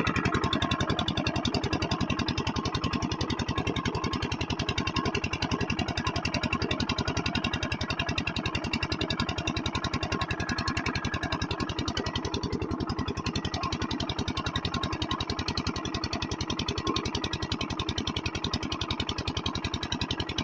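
Kranti water pump engine running steadily with a fast, even beat.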